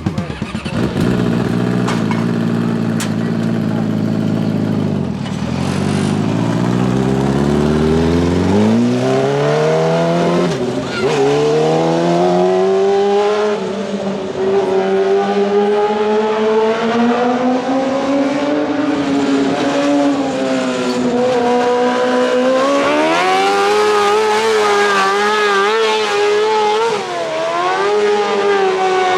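A race car engine running hard: its pitch climbs steadily over several seconds, then keeps rising and falling with the throttle.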